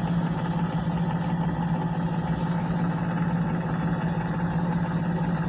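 Gas furnace's draft inducer motor running with a steady hum, purging the flue at the start of the ignition sequence while the igniter heats up and before the gas lights.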